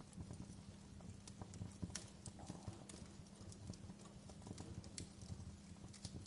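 Wood fire crackling in a fireplace: faint, irregular sharp snaps and pops, several a second, over a low steady rumble of burning.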